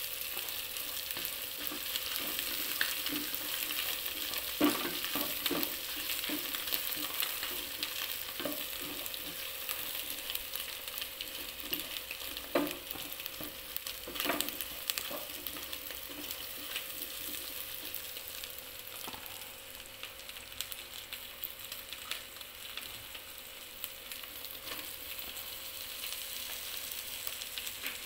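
Sausage slices, meatballs and egg sizzling in oil as they are stir-fried in a nonstick pot. A plastic spatula scrapes and knocks against the pan now and then.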